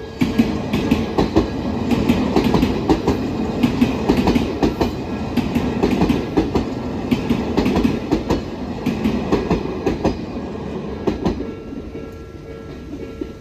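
Odakyu Odawara Line electric train passing through a level crossing, its wheels clattering rhythmically over the rail joints, easing off about 12 seconds in. The crossing's electronic alarm bell keeps ringing under the train noise.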